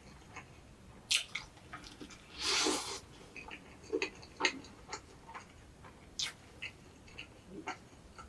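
Close-up chewing and wet mouth sounds of someone eating a soft egg-and-bread toast sandwich: scattered smacks and clicks, with one louder, noisier rustle lasting about half a second a couple of seconds in.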